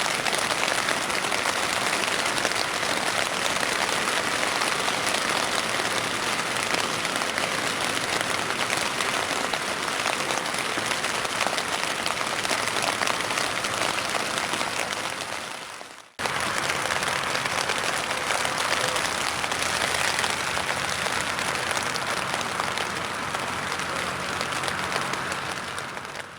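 Heavy rain falling on a tent, heard from inside as a dense, steady patter. It fades out about sixteen seconds in, comes straight back, and fades out again near the end.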